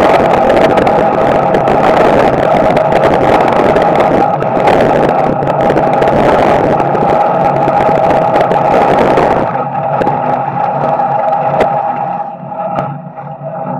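Small-block Chevy V8 of a dirt-track street stock, heard from inside the cockpit, running steadily. About two-thirds of the way in the sound drops off abruptly, and it gets quieter again near the end.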